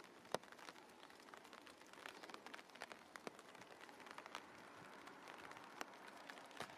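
Faint light rain: scattered raindrops ticking irregularly on a nearby surface over a soft steady hiss.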